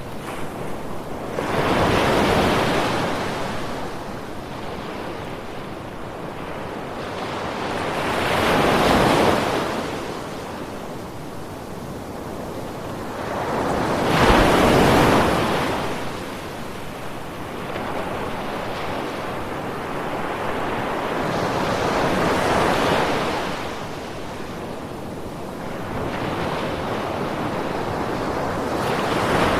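Ocean waves breaking and washing up on a shore, one swell every six or seven seconds, each building and fading over a few seconds, with a steady hiss of surf between them.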